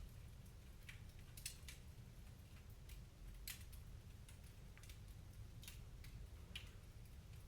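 Wood fire crackling faintly: irregular sharp pops and snaps, a couple a second, over a low steady rumble.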